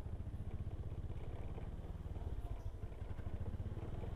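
Motorcycle engine running at low speed, a steady low pulsing.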